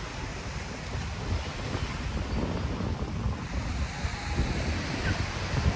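Waves washing onto a sandy beach, with wind buffeting the microphone in low, gusty rumbles.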